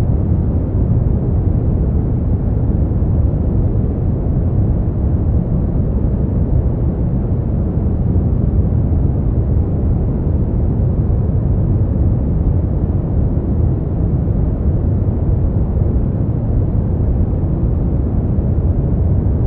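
Steady, unchanging noise, deep and muffled, with its weight in the bass and nothing in the high end. It is a continuous sleep-aid noise track.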